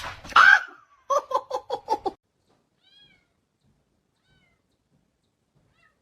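A cat meows once, then gives a quick run of about six short, clipped meows.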